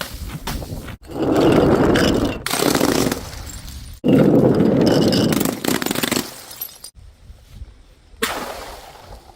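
Things being smashed and crushed. A few light clicks come first, then loud crunching, breaking bursts of one to two seconds each: one about a second in, the longest about four seconds in, and a shorter one near the end. Each cuts off abruptly.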